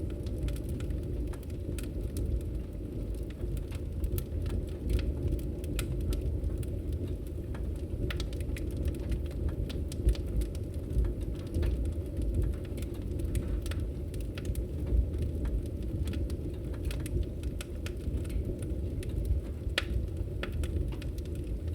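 Wood fire burning in a fireplace: a steady low rumble of flames with irregular, scattered sharp crackles and pops.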